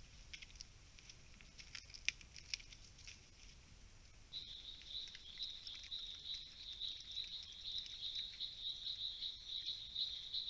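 Light scattered ticking and crackling, then about four seconds in an insect starts a steady high-pitched pulsing chirp, about four to five pulses a second.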